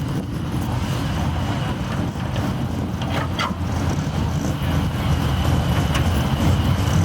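Car on the move, a steady low rumble of engine and road noise, with a couple of brief squeaks about three seconds in.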